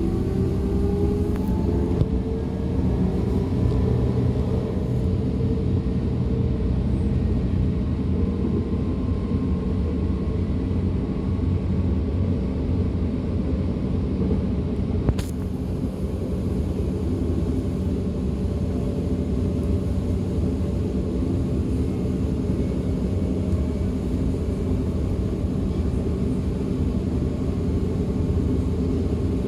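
DB class 425 electric multiple unit heard on board while under way: the traction drive's whine rises in pitch over the first few seconds as the train gathers speed, then gives way to a steady running rumble of wheels on rail. One sharp click about halfway through.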